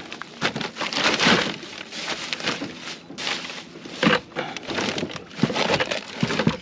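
Irregular clattering, rustling and knocking of crabbing gear being handled as a crab pot is set up and zip-tied.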